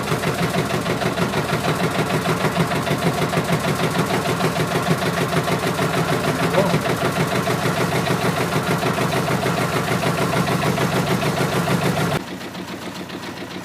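Kubota Z600-B two-cylinder marine diesel idling steadily with an even, rhythmic beat, just after a glow-plug start with no added throttle. About twelve seconds in, the sound drops suddenly to a quieter level while the engine keeps running.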